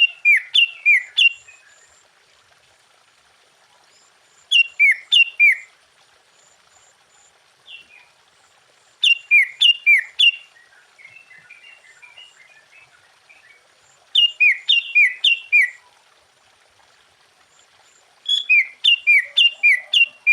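Sooty-headed bulbul singing: short bursts of four to six quick whistled notes, each sliding downward, repeated about every four to five seconds, with faint softer chirps in between.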